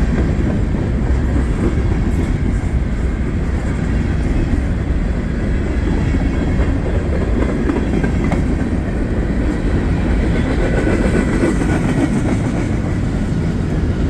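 Norfolk Southern mixed freight train's railcars rolling past close by: a steady loud rumble with the clickety-clack of wheels over rail joints.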